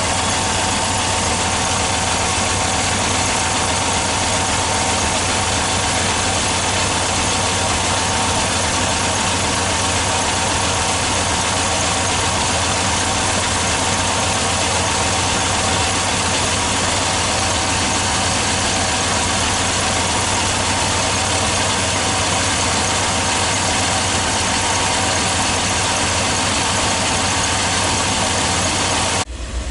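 1983 Mercedes-Benz 380SL's 3.8-litre V8 idling steadily, with a sudden drop to a deeper sound just before the end.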